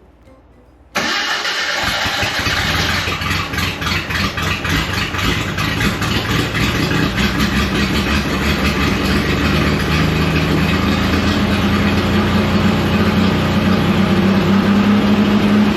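Jeep Wrangler YJ engine firing up about a second in and running steadily, its pitch rising a little in the second half. It is the Jeep's weekly start-up during the restoration, with the gas pedal left alone.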